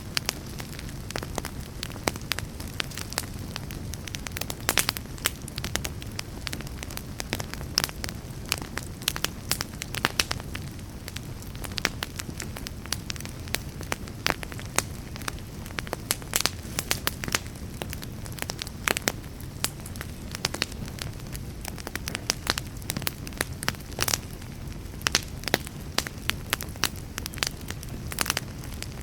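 Wood fire burning in a fireplace: logs crackling and popping in many sharp irregular snaps over a steady low rush of flame.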